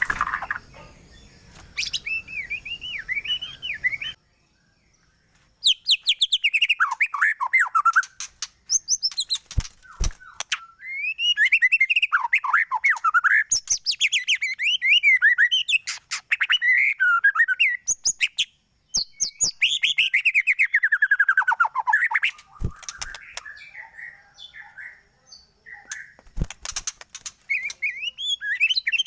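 White-rumped shama (murai batu) singing a varied, loud song of whistled and chirping phrases, many of them fast runs of notes falling in pitch, with a few sharp clicks between phrases. The song breaks off briefly about four seconds in.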